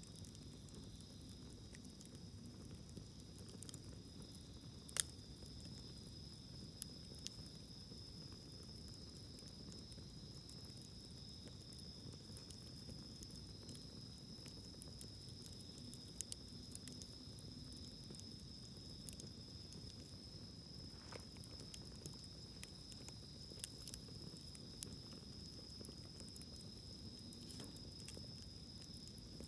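Wood fire burning softly in a fire stand, with scattered small crackles and one sharper pop about five seconds in. A steady high-pitched insect trill runs underneath.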